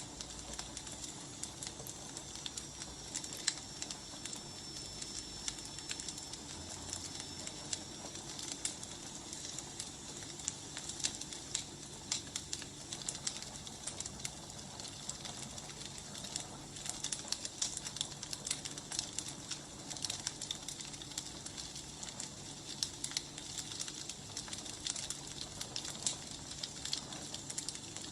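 Firewood burning, crackling with irregular sharp pops over a soft hiss, and a faint high whistle for the first several seconds.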